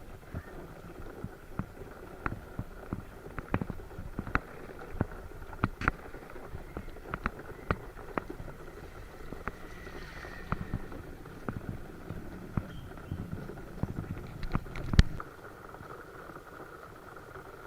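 Footsteps splashing through shallow floodwater at walking pace, about one and a half steps a second, over a steady faint hum, with a heavier thump about fifteen seconds in.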